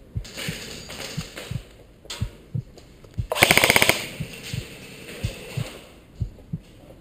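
An airsoft electric rifle (AEG) fires a short full-auto burst about three seconds in, a rapid even rattle of about fifteen shots a second lasting under a second. A low heartbeat-like thump repeats about three times a second underneath.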